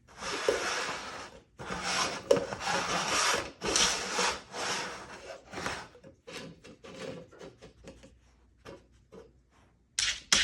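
Repeated scraping and rubbing against a hard surface: long, dense strokes at first, then from about six seconds in a run of short, quick scratches.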